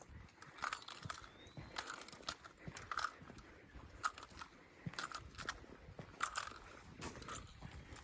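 Footsteps crunching on a dry forest trail, an irregular run of short crunches and scuffs as walking resumes.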